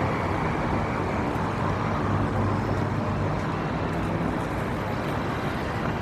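Busy city street ambience: steady traffic noise, with a low engine hum strongest about two to three seconds in.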